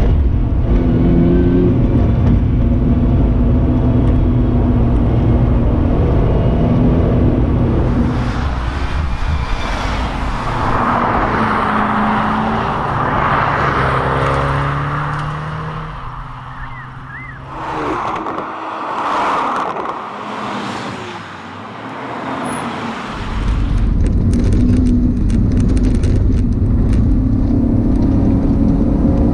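FGX Ford Falcon XR8's supercharged 5.0-litre V8 driven hard, its pitch rising and stepping through gear changes. It eases off for several seconds past the middle, then pulls strongly again.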